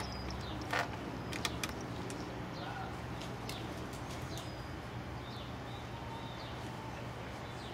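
Small birds chirping now and then over a steady low hum, with a few sharp clicks about a second in.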